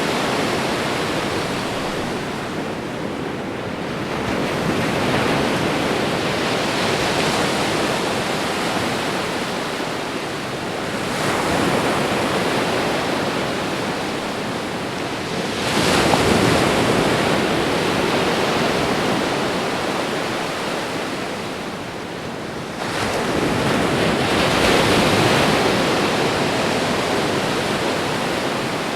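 Ocean surf: a continuous rushing of waves breaking and washing up the shore, swelling with each of about four breaking waves and easing between them.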